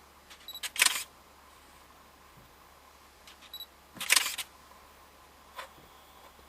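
Two short clusters of sharp mechanical clicks about three seconds apart, each preceded by a brief high beep, with a single fainter click near the end.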